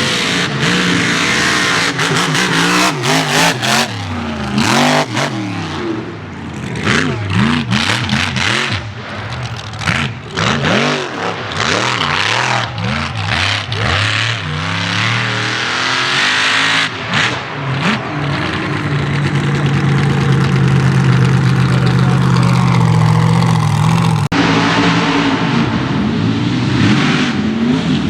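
Mega mud truck engines revving hard and dropping off again and again, then held at high revs for several seconds before the sound cuts off abruptly about 24 seconds in and revving resumes.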